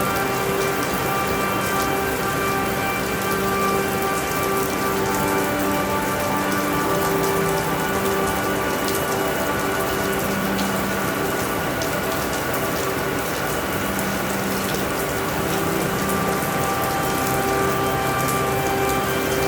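Steady rainfall, a continuous even hiss with fine drop ticks, over soft ambient music of long held notes that shift pitch every few seconds.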